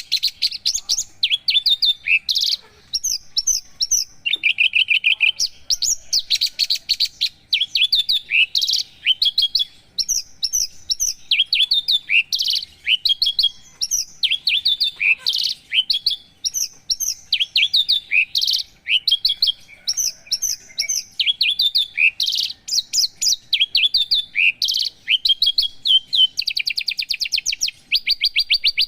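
Javan bushlark (branjangan) singing a long, continuous song of quick varied chirps and slurred notes. Near the end it breaks into a fast, even trill.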